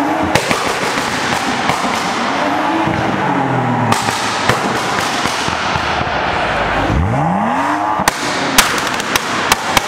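BMW 1 Series hatchback's engine revved hard in bursts, its pitch climbing and dropping back twice. A rapid string of sharp exhaust pops and bangs follows in the last two seconds.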